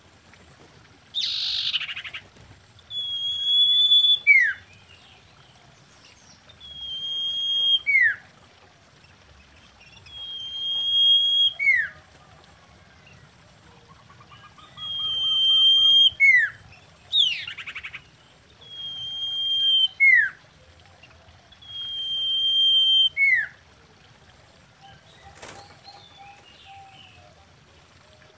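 Common iora singing: a drawn-out whistle that swells in loudness, then snaps down into a short falling note. The phrase repeats six times, about every three and a half seconds, with two short harsh rasping notes mixed in.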